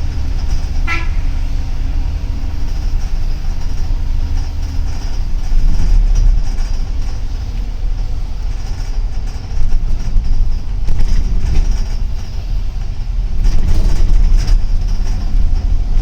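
Double-decker city bus heard from inside while driving: a steady low engine and road rumble, with a brief high squeak about a second in.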